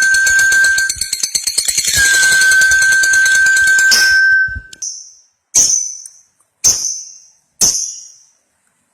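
Lovebird chattering in long, rapid high trills over a steady whistle-like tone, with a brief break about a second in. From about halfway, it gives four short separate calls about a second apart.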